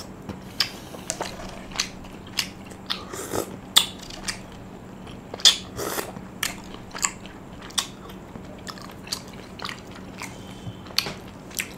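Close-miked chewing of tteokbokki, chewy Korean rice cakes in cheese sauce: irregular clicks and smacks from the mouth, a few louder ones near the middle.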